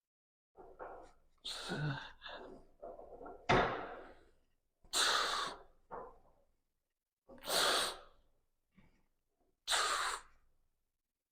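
A man's heavy breathing during a weightlifting set: sharp, noisy exhales about every two and a half seconds. A thump about three and a half seconds in is the loudest sound.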